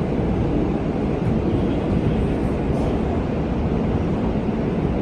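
R subway train running between stations, heard from inside the car: a steady, loud rumble and roar of wheels on the track.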